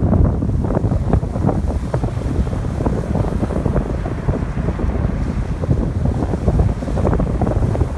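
Strong wind buffeting the microphone in loud, continuous rumbling gusts, over the wash of ocean waves on the shore.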